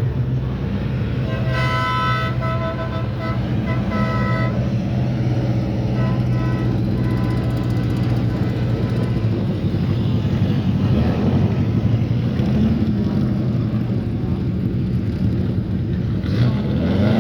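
Race car engines running with a steady low rumble, swelling a couple of times. A horn sounds in several short blasts about two seconds in, and again faintly around six seconds.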